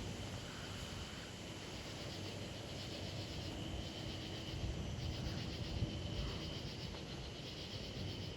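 Night insects, crickets, chirping steadily in a continuous high trill, with a low rumbling noise underneath.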